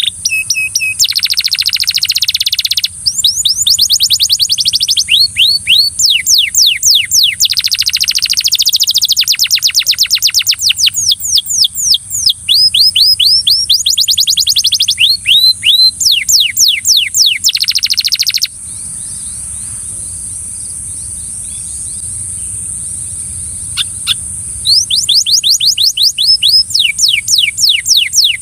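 Belgian canary singing loud, rolling trills of rapid, evenly repeated falling notes. The song breaks off about two-thirds of the way through, leaving a few scattered notes over a steady high hiss, then starts again near the end.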